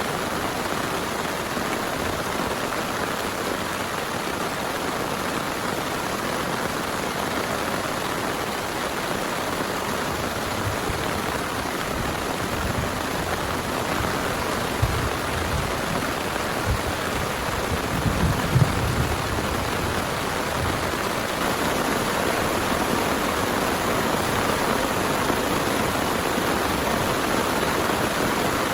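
Heavy rain pouring steadily, a dense unbroken hiss. A few dull low thumps sound about halfway through.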